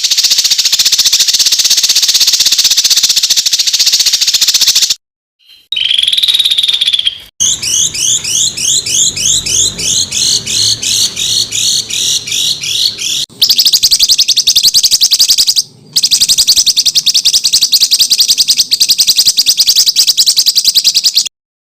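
Small songbirds singing rapid, harsh runs of repeated notes, the dense 'tembakan' phrases used as masteran training song. It comes as several spliced recordings with brief gaps between them: a dense buzzy trill, a short clear whistle, a run of quick rising notes, then fast chattering.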